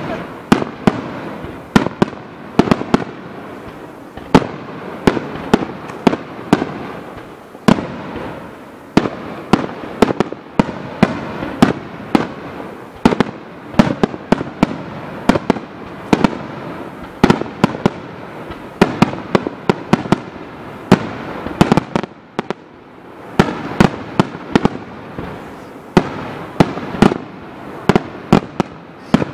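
Aerial fireworks barrage: many sharp bangs a second going off without a break, with crackling between them.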